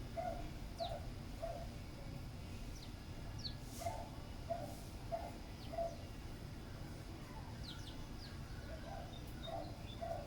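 Birds calling: a run of short low calls, three or four at a time with pauses between, and faint, quick high chirps above them.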